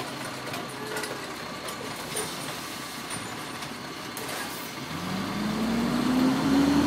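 Garbage truck running with a steady rumble. About five seconds in, a rising whine comes in and the truck gets louder.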